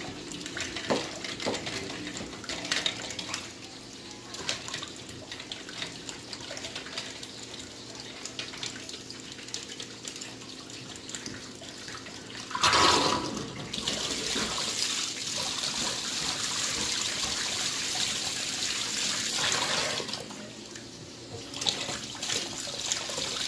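Hands being washed under a running sink tap, water splashing. The flow gets louder and steadier after a loud splash past the middle, then drops back near the end.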